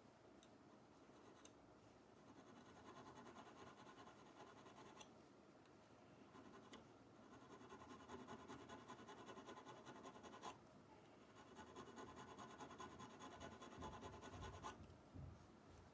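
Faint scratching and rubbing strokes of a hand tool against a surface, in three bouts with short quieter gaps and a few light ticks between them.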